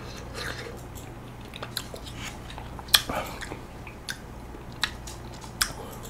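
Close-miked chewing of icy, half-frozen golden kiwi flesh: soft wet mouth sounds broken by a few sharp clicks. The sharpest click comes about three seconds in.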